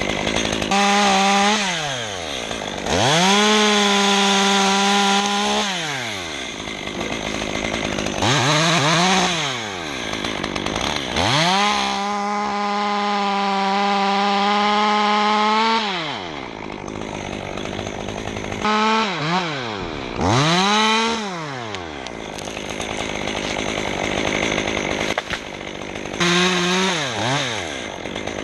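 Chainsaw revved up to full throttle about seven times, held high and steady for one to four seconds each time as it cuts wood, then dropping back to idle in between.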